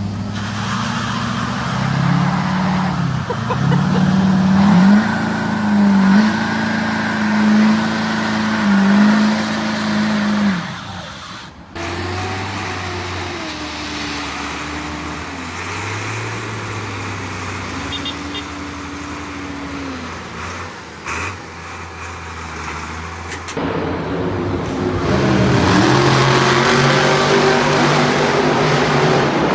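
Motor vehicle engines running and accelerating, the pitch climbing and dropping back again and again as through gear changes, in three stretches that cut abruptly into one another.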